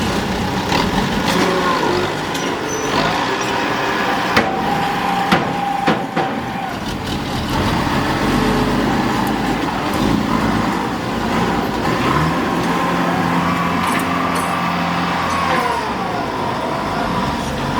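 Heavy work vehicle's engine running steadily, with a few sharp knocks about four to six seconds in.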